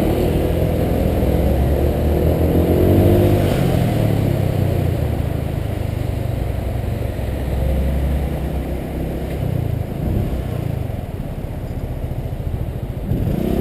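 Honda PCX 125 scooter's single-cylinder four-stroke engine under way, its pitch rising as it pulls away over the first few seconds, then easing off and running lower, with a rise again right at the end.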